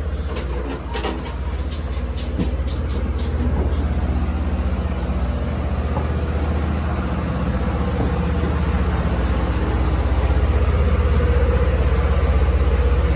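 Steady low rumble of a passenger rail coach running along the track, growing slightly louder partway through, with a scatter of sharp clicks and knocks in the first few seconds.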